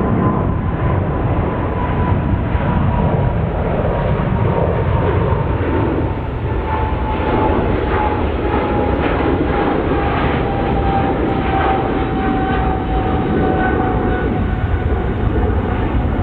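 Jet airliner's engines running at takeoff power during departure: a steady loud rumble with a whine that falls slowly in pitch.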